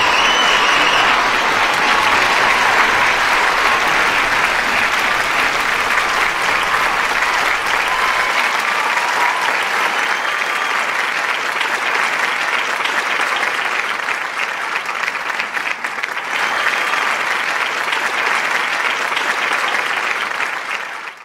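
Audience applauding steadily, with a few cheers and whistles in the first second or so; the applause cuts off suddenly at the end.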